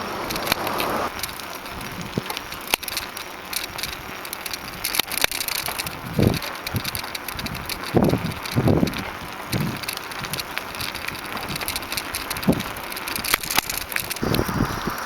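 Road noise of a bicycle being ridden, with steady rattling and clicking and several short low gusts of wind buffeting the microphone.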